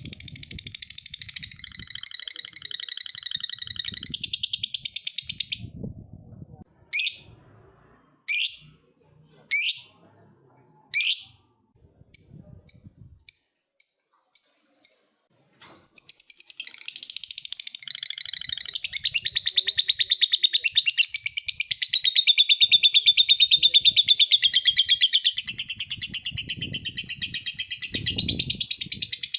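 Lovebird giving its long 'ngekek' chatter: a fast, shrill trill for the first few seconds. It breaks off into four single sharp downward calls and a quick run of short chirps, then resumes as a long unbroken trill from about halfway through.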